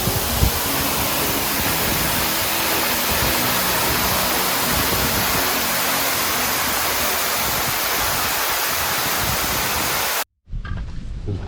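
Waterfall's falling water, a steady loud rush. It cuts off suddenly about ten seconds in.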